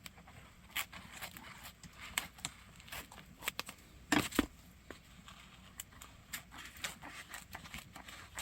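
Burning firewood crackling in a wood stove: irregular sharp pops and snaps, with a louder pair of pops about four seconds in.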